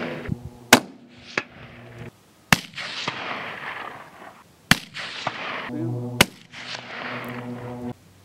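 A string of rifle shots: about four loud reports roughly two seconds apart, plus a smaller crack, each followed by a rolling echo. None of them sets off the Tannerite target, so the shooter is missing.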